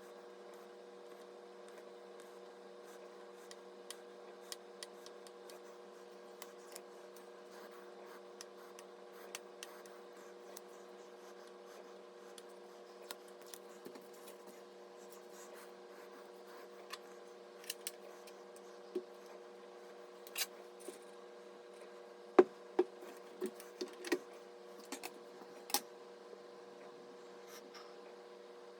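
Scattered light clicks and taps of small parts being handled during PC assembly, growing more frequent and louder about two-thirds of the way through, over a steady low hum.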